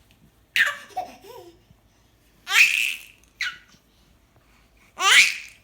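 A six-month-old baby laughing in short, breathy, high-pitched bursts. The loudest bursts come about halfway through and near the end.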